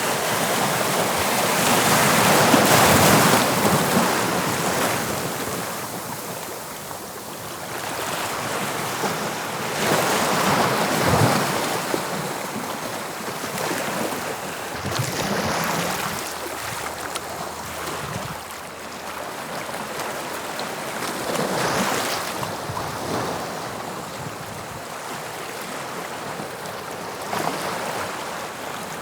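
Waves of the English Channel breaking on a beach, the surf swelling and ebbing every few seconds, loudest about three seconds in.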